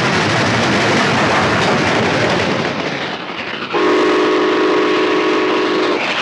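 A train running with a loud rushing clatter that eases off after about three seconds. Then the train's whistle blows one long chord of several notes for about two seconds and cuts off near the end.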